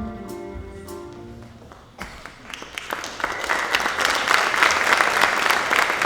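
The show's musical accompaniment holds sustained chords that fade over the first two seconds. Then applause breaks out sharply about two seconds in and builds to a steady level.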